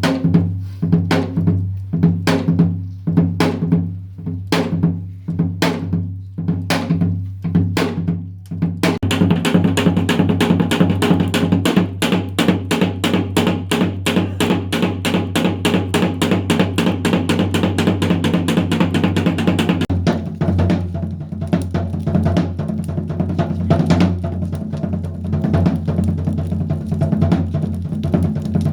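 Janggu (Korean hourglass drum) playing. It starts with spaced single strokes for about eight seconds, then breaks into a fast, dense rhythm that eases a little about two-thirds of the way in. A steady low hum runs underneath.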